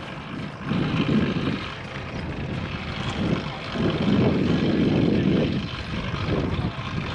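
Wind rumbling on the action camera's microphone while cycling, swelling in two gusts, about a second in and again around four to five seconds in.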